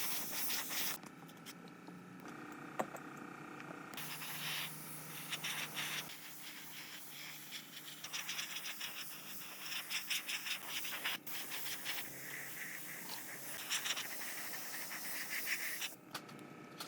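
Scraping and rubbing on metal during restoration hand work, in short cut-together segments with abrupt changes in sound.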